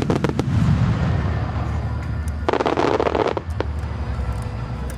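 Star mine aerial firework shells bursting overhead. There is a quick cluster of sharp bangs at the start, then a dense spell of crackling about two and a half seconds in as glittering stars break up.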